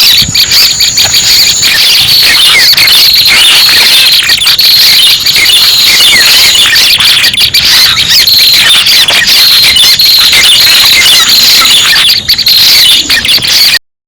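Prenjak (prinia) lure call recording: rapid, dense, high-pitched chirping and trilling played loud and without a break, as used to attract prenjak pala merah for trapping. It cuts off suddenly near the end.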